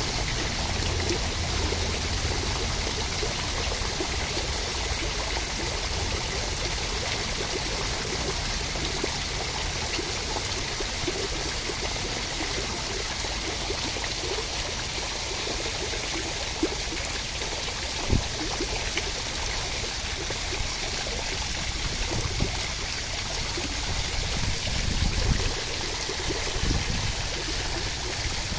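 Steady rain falling, an even rushing hiss of water, with a few soft low knocks in the second half.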